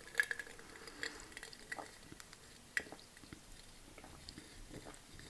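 A person chewing food with the mouth close to the microphone: faint, scattered soft clicks and smacks, one a little sharper about three seconds in.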